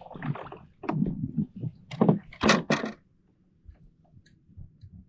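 Several hollow thumps and knocks against a plastic fishing kayak, with some rustling handling noise; they stop about three seconds in, leaving only faint ticks.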